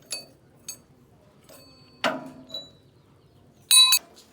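Clicks and clinks of metal parts and tools being handled. There are two light ticks at the start and a louder knock about two seconds in that rings briefly. Near the end comes a short, loud, high ringing squeal.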